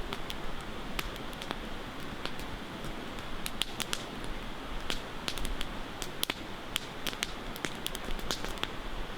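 Campfire crackling: irregular sharp pops and snaps of burning wood, several a second in clusters, over a steady hiss.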